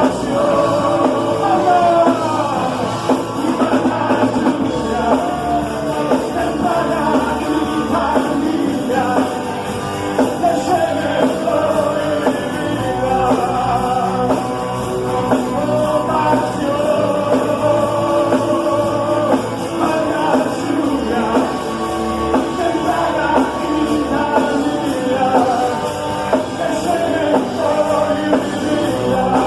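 Band music from a worship song, with a melodic lead line sliding and bending in pitch over a steady accompaniment.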